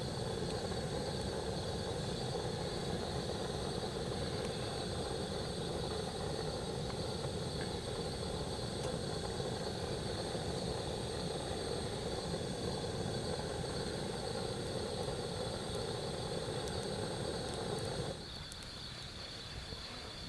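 A steady machine-like drone starts abruptly and cuts off suddenly about eighteen seconds in. A steady chorus of night insects runs on underneath.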